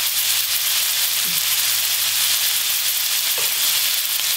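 Pork-belly-wrapped aralia shoots frying in oil in a pan over low-to-medium heat: a steady sizzling hiss.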